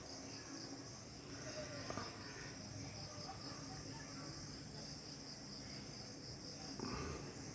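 Faint steady chorus of night insects trilling in a high, pulsing band, with a few faint, brief lower calls in the background.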